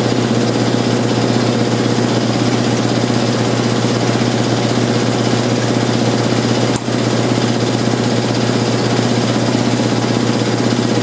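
Electric air compressor running steadily with a strong motor hum, after new start capacitors were fitted to its motor: it now starts and keeps running. One brief click about seven seconds in.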